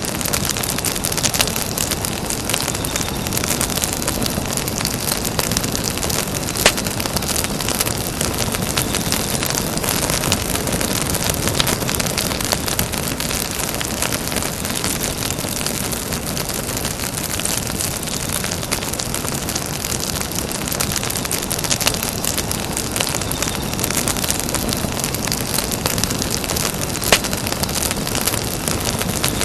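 Campfire burning: a steady hiss of flames with scattered crackles and pops, two of them sharper and louder, about seven seconds in and near the end.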